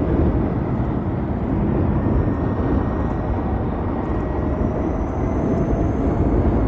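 Ride noise from an Ather 450X electric scooter on the move: wind buffeting the microphone along with road and traffic noise. A faint high whine rises slightly near the end.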